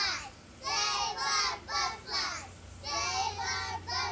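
Young children singing short phrases in a high register, in two groups of about three phrases each with a brief pause between.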